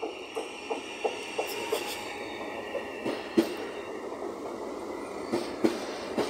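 A Trenitalia Rock double-deck electric multiple unit rolls past along the platform, its wheels clicking rhythmically over the track at about three clicks a second. Later come a few louder, irregular knocks, all over a steady rumble with a steady high whine.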